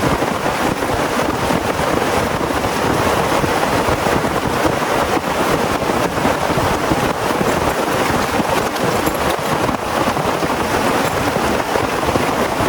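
Heavy rain falling steadily, a loud dense hiss of drops.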